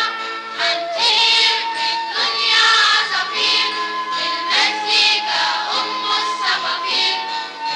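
A song with a group of voices singing together over instrumental backing, holding long notes with vibrato.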